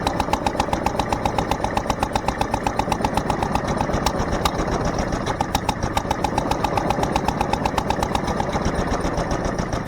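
McCormick-Deering International Harvester LB series single-cylinder stationary engine running steadily under its throttle governor, with a rapid, even beat of firing strokes.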